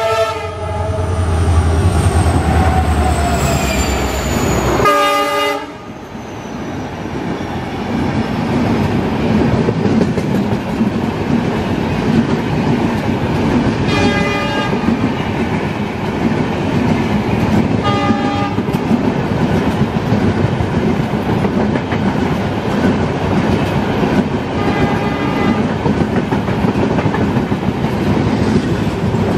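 A WDP4 diesel-electric locomotive (two-stroke EMD V16) sounds its horn and passes with a deep engine rumble and pitches gliding downward, with a second short horn blast about five seconds in. Then its red passenger coaches roll past close by with a steady clatter of wheels on rail, broken by a few short pitched tones.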